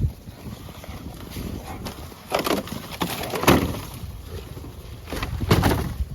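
Footsteps crunching in snow: a few uneven steps, the loudest about two and a half, three and a half and five and a half seconds in.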